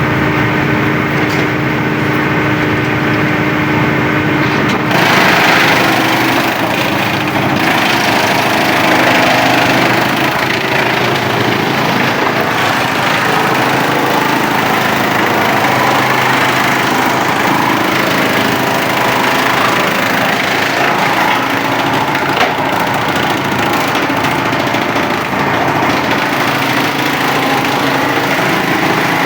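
Engine-driven wood chipper running steadily. About five seconds in, a louder, rough noise joins and carries on, as wood is chipped.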